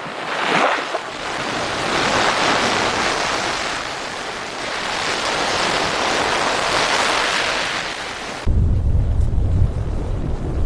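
Floodwater rushing and surging like breaking waves, swelling and easing. About eight and a half seconds in it cuts abruptly to a deep, heavy rumble with wind buffeting the microphone.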